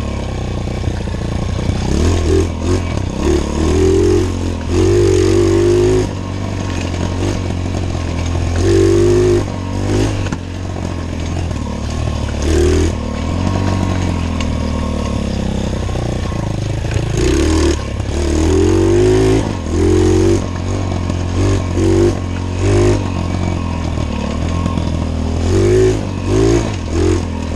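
Pit bike engine running under load as it is ridden, revving up and down with repeated short bursts of throttle.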